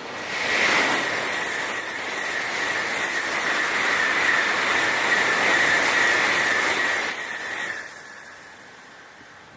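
A Tokaido Shinkansen N700-series bullet train passing through at speed: a loud rush of noise with a steady high note in it, rising quickly about half a second in, holding for about six seconds, then fading away.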